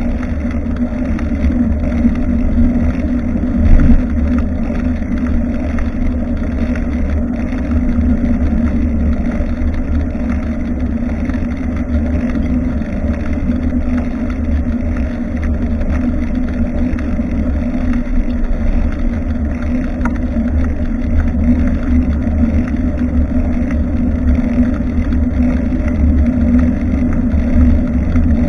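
Steady rumble of wind and road vibration from a moving bicycle, picked up by an action camera mounted at the rear light, with a single louder jolt about four seconds in.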